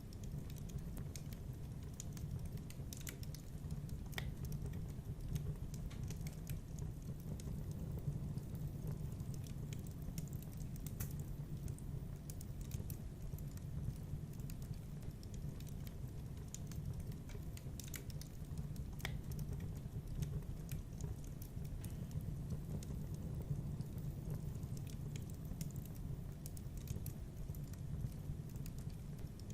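Wood fire crackling in a fireplace: scattered sharp crackles and pops over a steady low rumble of the burning fire.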